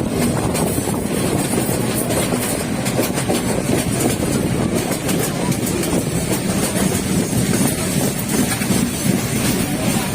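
Passenger train running along the rails: a steady rumble of wheels and carriage with a light clickety-clack.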